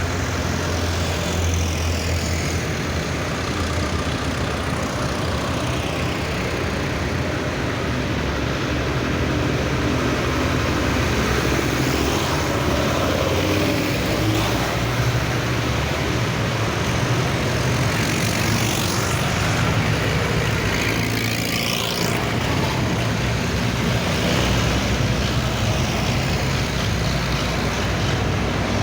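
Vintage tractors driving past one after another in a procession, their engines running in a steady low drone. The pitch shifts as individual tractors pass, with a clear passing glide about twenty seconds in.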